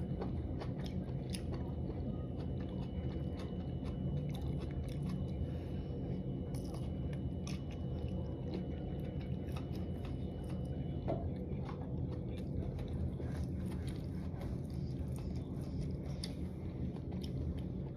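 Close-up chewing and biting of spicy dry hot pot, with many small sharp mouth clicks over a steady low hum.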